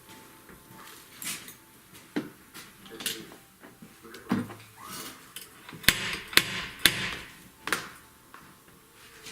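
Scattered sharp knocks and clinks of hand tools in car body dent repair, with three loud strikes about half a second apart around six seconds in.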